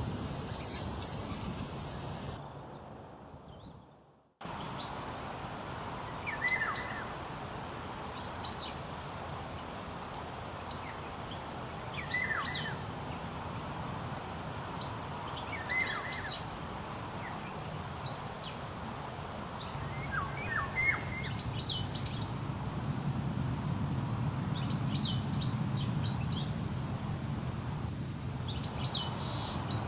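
Outdoor pond-side ambience with songbirds calling now and then: short calls that drop in pitch, and higher twitters, over a steady background hiss. A low rumble builds in the second half. The sound fades out about four seconds in and comes back at an edit.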